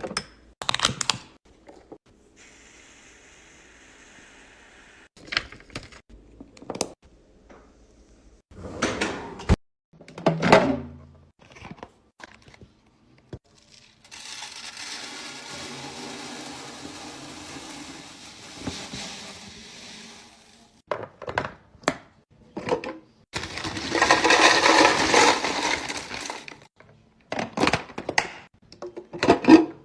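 Fridge restocking: items and packaging handled and set down, giving a series of knocks and clicks, with two longer stretches of steady rustling or rattling noise, the louder one near the end.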